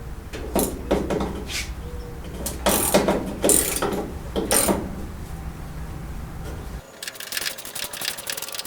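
Hand tools working on metal: several separate rasping strokes, then from about seven seconds in a quick run of ratchet-like clicking. A steady low hum underneath cuts off suddenly just before the clicking starts.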